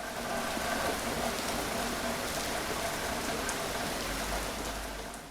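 Steady rainfall with scattered drop ticks, a rain sound effect that fades in and starts dying away near the end.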